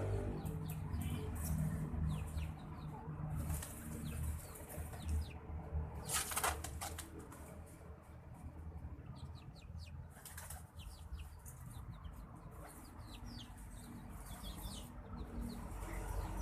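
White-breasted waterhen flapping its wings while bathing, in repeated flurries with the loudest about six seconds in. A steady low rumble runs beneath.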